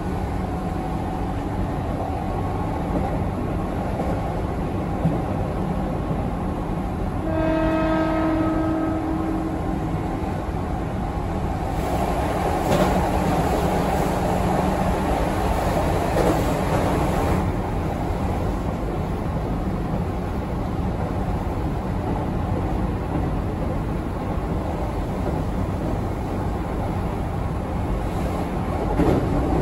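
Keihan 8000 series electric train running along the line with a steady rumble of wheels on rail. About seven seconds in a horn sounds once for roughly two seconds, and later a rush of louder noise swells for about five seconds and fades.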